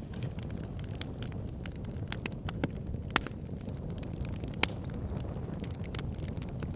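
Wood fire burning in a fireplace: a steady low rumble of flames with frequent sharp crackles and pops from the logs, a couple of louder pops a little past the middle.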